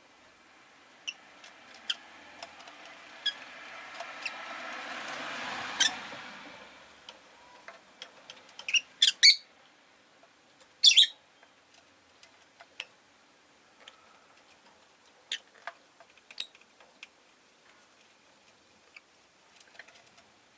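Rosy-faced lovebird giving short, sharp chirps, loudest in a cluster about nine and eleven seconds in, with small scattered clicks and ticks between them. A passing vehicle swells and fades during the first six seconds or so.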